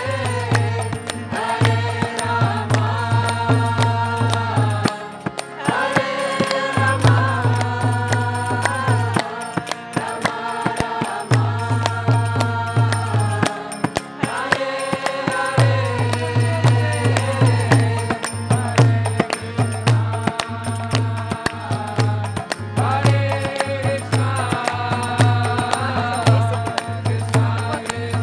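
Devotional kirtan: voices chanting a mantra melody over a drum beating a steady rhythm. The drum drops out for short breaks now and then while the chant carries on.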